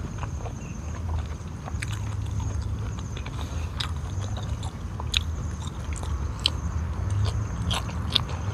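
Close-up eating sounds: a man chewing vegetables and rice, with irregular sharp mouth clicks, and a bite into a dipped vegetable near the end.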